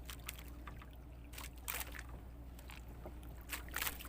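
Water slapping and splashing against a small fishing boat's hull in irregular short strokes, over a steady low hum.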